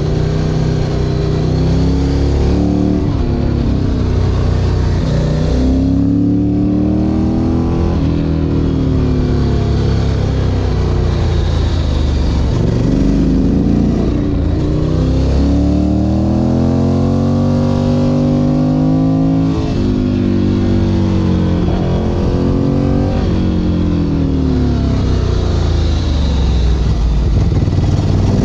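Ducati Monster 1100 EVO's air-cooled L-twin engine under way, its pitch rising as the bike accelerates and falling as it backs off, over and over, with a constant rush of wind noise.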